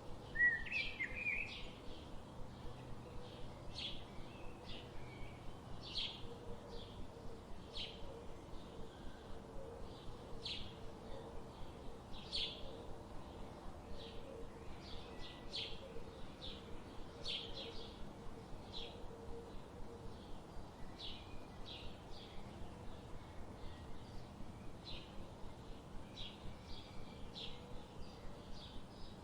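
Forest ambience with birds calling: a steady train of short, high chirps, about three a second, and one louder warbling call about half a second in.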